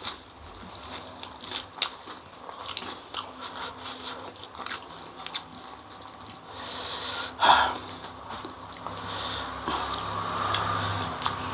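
Close-up eating sounds of spicy chicken feet and fried noodles: chewing with wet clicks and smacks, and fingers squishing through sauce-coated food, with one louder wet sound about seven and a half seconds in.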